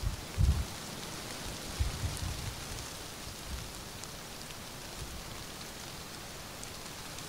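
Steady rain falling, an even hiss with scattered drop ticks, broken by a few deep low thumps in the first couple of seconds, the loudest about half a second in.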